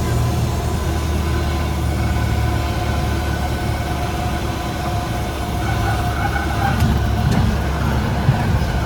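Cessna 172M's four-cylinder Lycoming engine and propeller droning steadily, a low even hum with no change in pitch.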